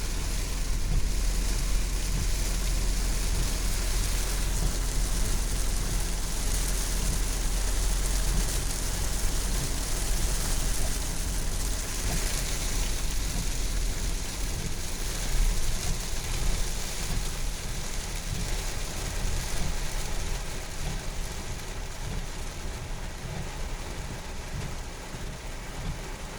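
Heavy rain pouring down steadily over a low rumble, easing a little near the end.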